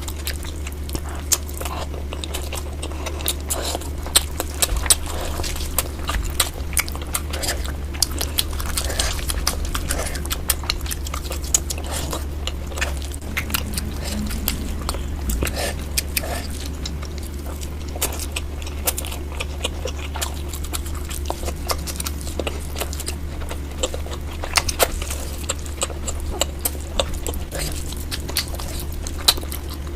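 Close-miked chewing and biting of spicy tandoori chicken, a dense run of wet, sticky clicks and smacks, sped up to double speed, over a steady low hum.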